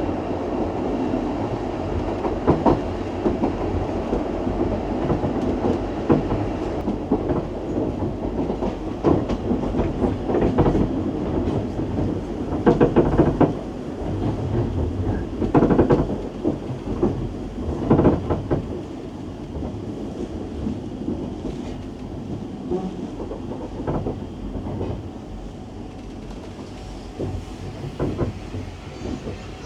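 Heritage railway train running along the track: a steady rumble with irregular clacks and knocks from the wheels and carriage, easing somewhat quieter over the last few seconds.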